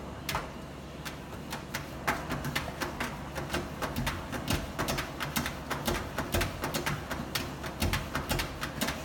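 A puppy's claws tapping and scratching, quick irregular clicks that come thicker from about two seconds in.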